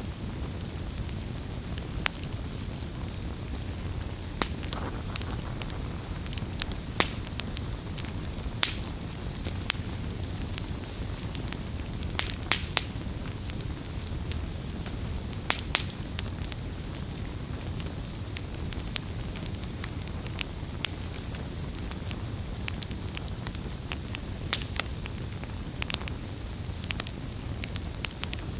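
Campfire crackling, with irregular sharp pops and snaps over a steady low rumble and hiss. A cluster of louder pops comes about halfway through.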